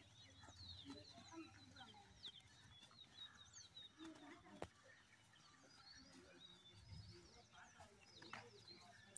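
Faint birds chirping in short high calls, with a single sharp click about halfway through.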